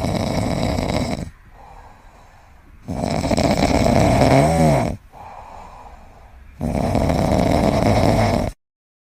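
An animal snoring loudly: three long snores about three seconds apart, with quieter breaths between them. The sound cuts off abruptly about a second before the end.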